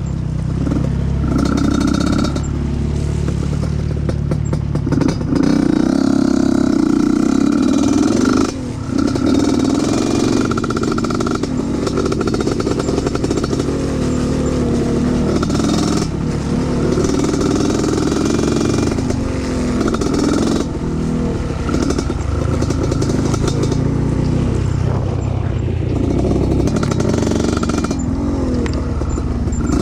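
Trail motorcycle engine running under load, its revs rising and falling repeatedly, with clattering over rough ground and a brief drop in revs about eight seconds in.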